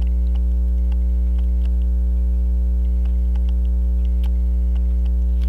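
Steady electrical mains hum with its overtones, at an even level throughout, with a few faint light ticks scattered through it.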